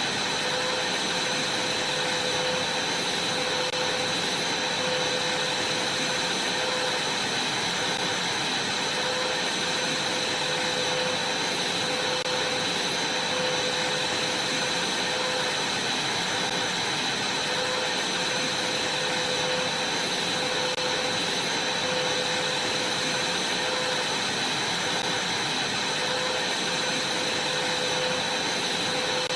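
Vacuum cleaner running steadily: an unchanging rushing noise with a constant whine over it.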